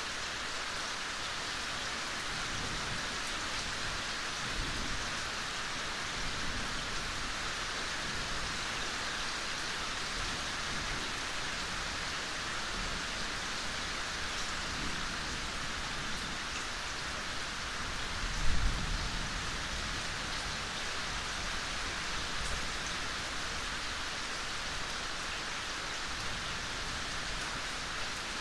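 Steady soft rain falling, an even hiss of drops. About two-thirds of the way through comes a brief low thump.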